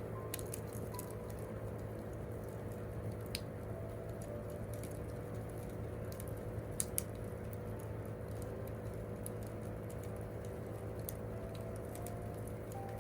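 Wood campfire burning with a steady low rumble and scattered crackles and pops, the sharpest a pop about three seconds in and a quick pair near seven seconds.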